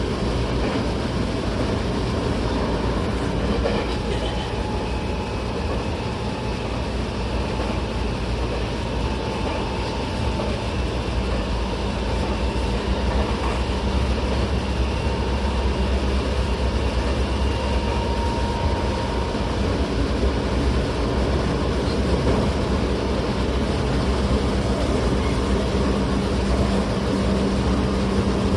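Tokyo Metro 08 series electric train running at speed, heard from inside the car: a steady rumble of wheels on rail with faint whining tones over it. A low hum grows stronger near the end.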